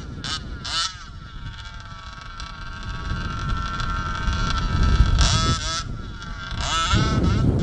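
HPI Baja 1/5-scale RC car's small two-stroke petrol engine buzzing: a few quick revs, then held at a steady high rev for several seconds, then revved up and down twice more near the end.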